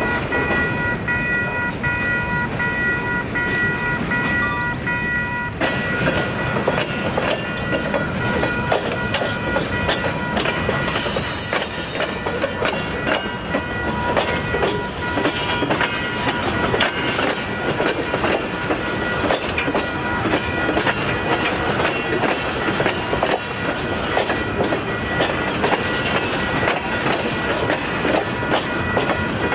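Freight train rolling past, its wheels clattering over the rail joints with brief high wheel squeals now and then. A pulsing ringing tone sounds over the first five seconds or so.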